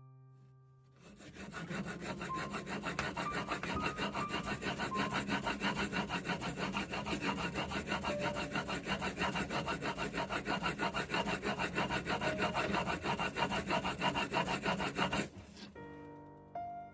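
A steel carpenter's chisel being sharpened by hand, rubbed back and forth on a sharpening stone in rapid, even strokes that stop abruptly near the end.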